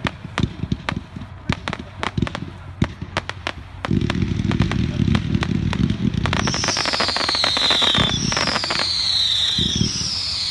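Consumer 500-gram fireworks cake, a zipper cake, firing: many sharp pops at first, then dense continuous firing from about four seconds in. From about six seconds in, falling whistles repeat every second and a half or so.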